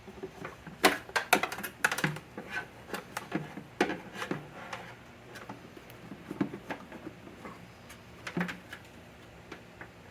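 Irregular clicks and light knocks of parts being handled and fitted, with small flurries of clatter about a second in, around four seconds and near the end.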